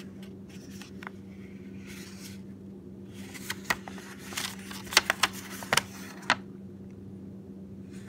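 Cardboard pen box and paper packaging being handled: soft rustling, then a cluster of sharp clicks and taps around the middle, over a steady low hum.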